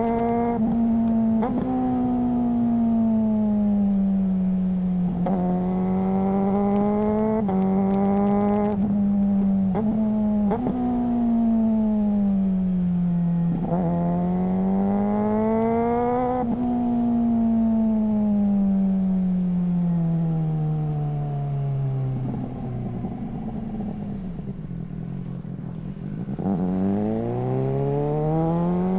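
Suzuki GSR600 inline-four engine through a GPR Ghost aftermarket exhaust, ridden under way. The revs climb and fall again and again, with short sharp cracks at several gear changes. About three-quarters through, the revs drop low and the sound goes quieter, then it climbs hard again near the end.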